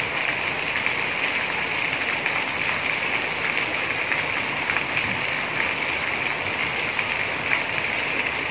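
Heavy rain falling steadily on a paved courtyard: an even hiss of downpour with the patter of drops on wet tiles and concrete.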